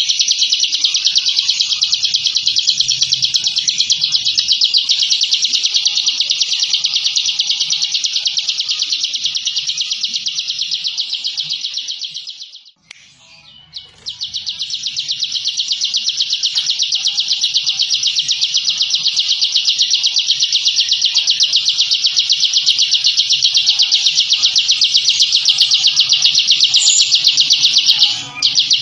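Ciblek (prinia) singing its 'ngebren' song: a long, very fast, dense high-pitched trill. It fades out for about a second and a half midway, then resumes, with a brief break near the end.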